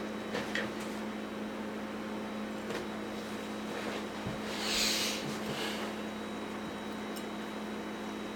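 Steady low hum and hiss of room tone, with a few faint clicks and a brief soft rustle about five seconds in.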